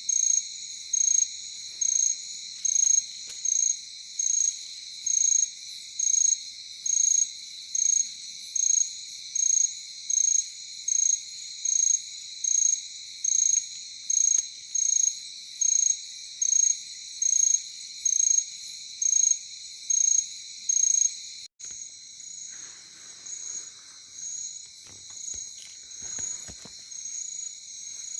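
Night insect chorus of crickets: a steady high shrill, with one loud chirp repeating evenly about three times every two seconds. About two-thirds of the way through it breaks off abruptly, and the chorus carries on with softer chirping.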